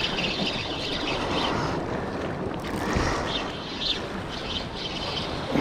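Steady noise of wind and sea water washing by the shore or boat, with wind buffeting the microphone.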